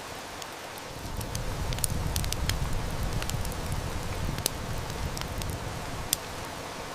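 Steady heavy rain with a wood fire crackling in scattered sharp snaps and pops. A low rumble of distant thunder swells about a second in and dies away near the end.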